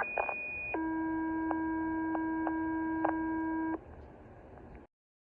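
Fire dispatch alert tones heard over a radio: a short high tone, then a long steady buzzy tone lasting about three seconds, followed by radio hiss that cuts off abruptly.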